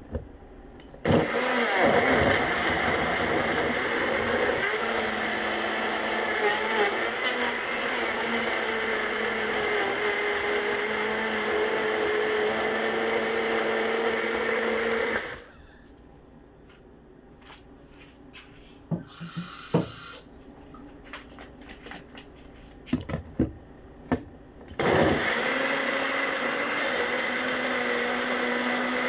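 Countertop blender running on a smoothie of kale, fruit, chia and milk, steady for about fourteen seconds before stopping. Then come several knocks and one brief pulse of the motor, and about four seconds from the end it starts running again.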